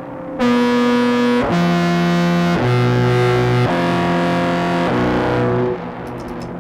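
Contrabass clarinet played through an octave-down pitch shifter into a fuzz pedal and reverb. It plays five sustained, fuzzed notes of about a second each, stepping between pitches, and a reverb tail fades after the last note.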